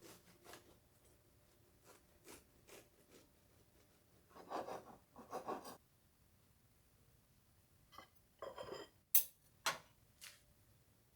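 Quiet kitchen handling sounds: scattered light taps, two short scraping passes about halfway through, and a few sharp clicks near the end.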